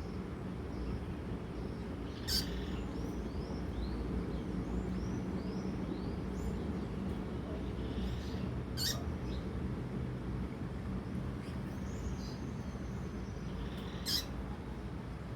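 Female double-collared seedeater (coleiro) calling: a series of short, high, downslurred chirps, about two a second, broken by three sharp clicks, over a steady low background noise.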